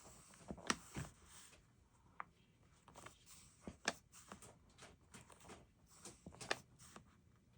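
Faint, scattered clicks and taps with brief rustles of hands working on a paper planner at a desk: pages, pen and stationery being handled.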